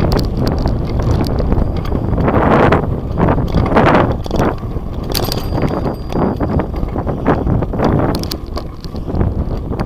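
Wind buffeting the microphone of a camera riding on a moving bicycle, swelling and easing, with frequent small clicks and rattles from the bike.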